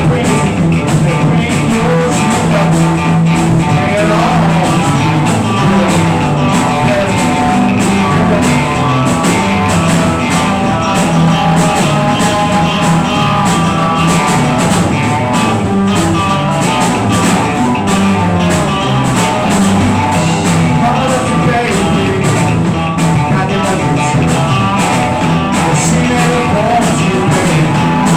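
Rock band playing an improvised jam: electric guitar, bass guitar and drum kit, with a walking bass line.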